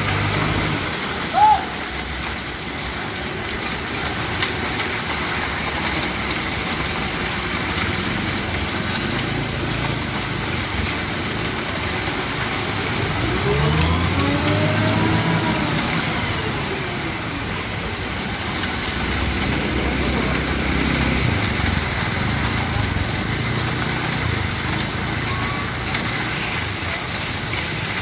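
Concrete mixer truck's diesel engine running, revving up and easing back down once about halfway through, with a second swell a little later.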